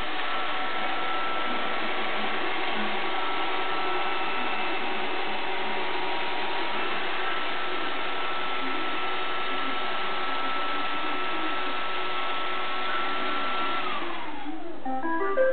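iRobot Roomba 560 robot vacuum running, its motors giving a steady whir with a high whine. Near the end the whine falls in pitch as the motors wind down, and a few short electronic beeps begin.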